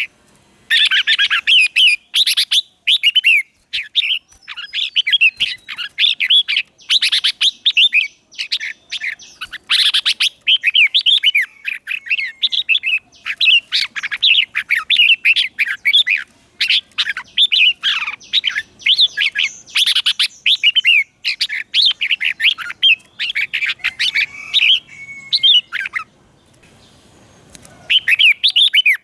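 Red-whiskered bulbul singing: rapid, loud runs of short whistled and chirping phrases, repeated almost without a break. The song stops for about two seconds near the end, then starts again.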